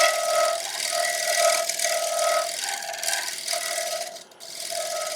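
Bowl gouge shear-scraping the rim of a spinning sycamore bowl on a wood lathe, a rasping hiss of fine cutting over a steady tone from the turning work. The cut lifts off and comes back in a few short gaps near the end, as the edge is refined with light passes.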